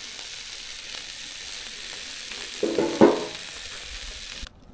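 Hot Italian sausages sizzling on a barbecue grill, a steady hiss that cuts off suddenly near the end, with a brief louder sound about three seconds in.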